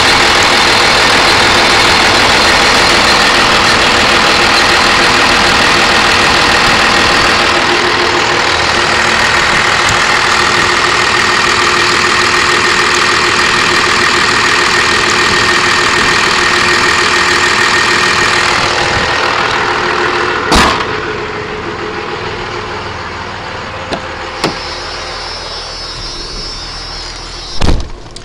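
1997 Dodge Ram 2500's 5.9-litre Cummins turbodiesel idling steadily and loudly. The sound drops in level about two-thirds of the way through. Two sharp knocks follow, one just after the drop and one near the end.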